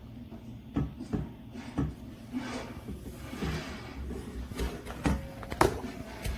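A series of irregular knocks and clicks, about eight, with handling noise between them.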